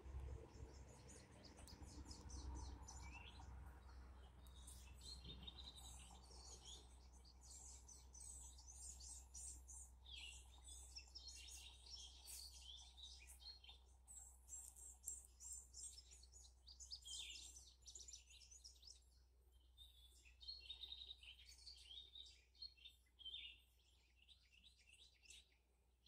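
Small birds giving rapid, high-pitched chirping calls, many short notes in quick series, coming and going throughout; agitated calls at the cats prowling below.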